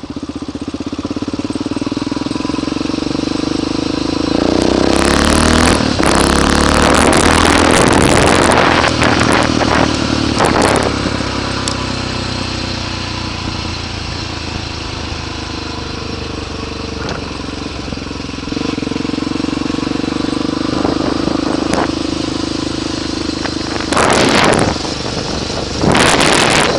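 Honda 350 four-stroke motorcycle engine running under way, revving up about four seconds in, easing off around twelve seconds and picking up again near nineteen. Two loud rushes of wind noise near the end.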